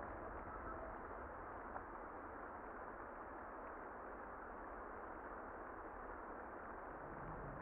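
Steady, muffled rain hiss with the top end cut off. The music has dropped out, and a low tone comes back near the end.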